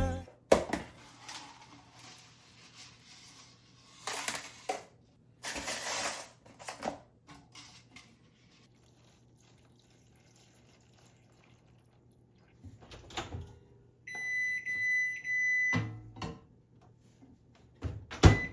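Household handling noises, with clicks, rustles and light clatter, then about fourteen seconds in an electronic beep tone that lasts nearly two seconds, followed by a few short knocks near the end.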